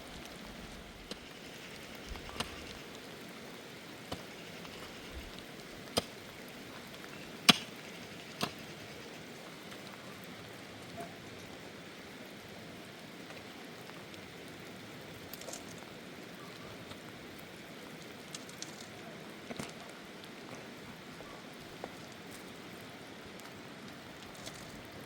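Steady rain falling, with scattered sharp taps or knocks, the loudest about seven and a half seconds in.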